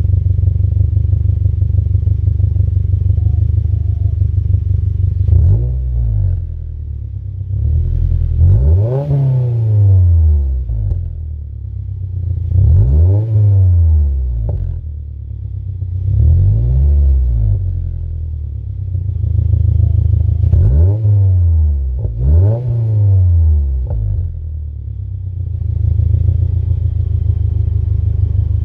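Subaru's turbocharged flat-four idling through an Invidia R400 cat-back exhaust, given light revs. After about five seconds of steady idle, the engine is blipped six or seven times, roughly every few seconds, each rev rising and dropping back to idle, then it settles into idle again near the end.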